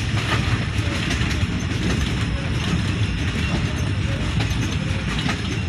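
A passenger train in motion: the steady running rumble of the coaches' wheels on the track.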